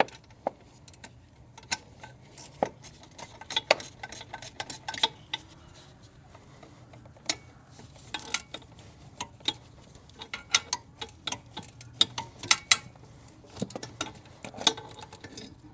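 Metal hand tools clicking and clinking against engine parts in irregular bursts, as a socket wrench works on a tight bolt.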